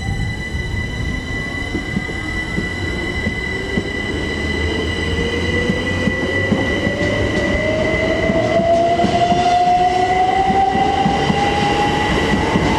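Pair of Class 387 Electrostar electric multiple units pulling away from the platform, their traction motors giving a rising whine as they pick up speed over a steady high tone and rail rumble, growing louder.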